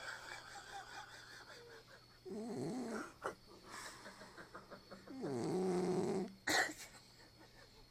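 Cockapoo dog snoring in its sleep: two long, pitched, wavering snores about two and five seconds in, the second followed straight away by a short sharp snort.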